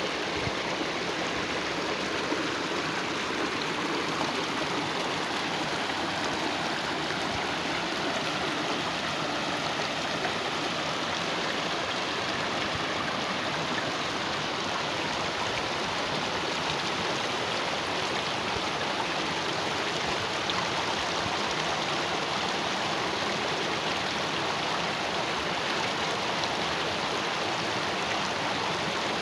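Running water from a small river and canal, a steady, even rush that does not change.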